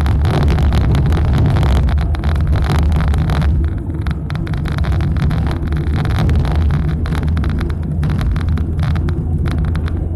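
Car driving: a steady low rumble of engine and road noise, with many short clicks and ticks over it.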